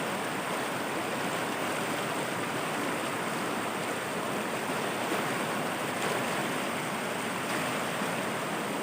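A stream's water rushing over rocky rapids: a steady, unbroken rush that holds the same level throughout.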